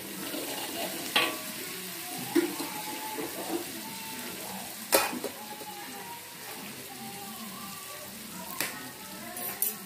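Ground chilli, garlic and shallot paste sizzling in hot oil in a wok, stirred with a metal spatula that scrapes and knocks against the pan a few times, the sharpest knock about five seconds in.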